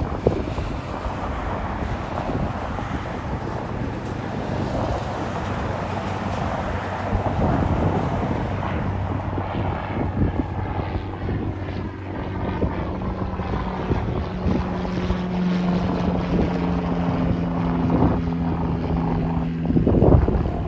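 Lockheed C-130 Hercules turboprops running, a steady propeller drone whose low tones become clearer in the second half, with wind buffeting the microphone.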